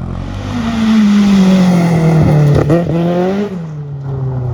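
Rally car passing close at high revs, its engine note falling steadily as it goes by, with a loud rushing hiss of tyres and road at its loudest. A couple of brief breaks in the note come before it settles lower near the end.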